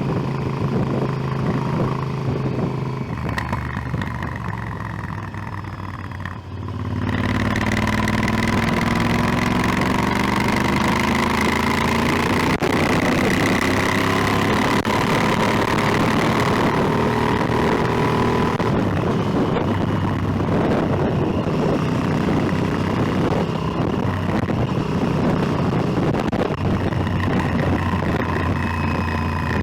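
Motorcycle engine running on the road: it drops off briefly about six seconds in, then pulls away with its pitch rising for about ten seconds before settling into a steady cruise, with a rush of wind over the microphone.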